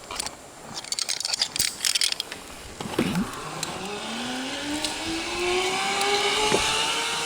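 Zip line trolley pulley running along the steel cable: clicks and rattles of gear handling at first, then from about three seconds in a whine that rises steadily in pitch as the trolley picks up speed, over a growing hiss.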